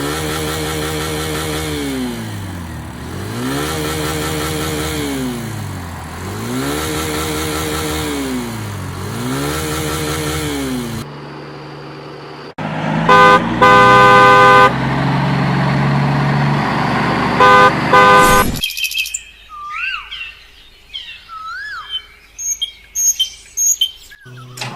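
A vehicle engine revving up and down in a steady cycle, four swells in a row. Then a long horn blast and a shorter one sound over the engine, and after that birds chirp.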